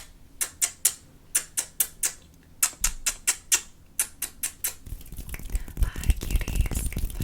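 Fingers tapping fast on a tabletop in quick runs of sharp taps. About five seconds in, this turns to rapid scurrying and scratching across the surface, with dull knocks underneath.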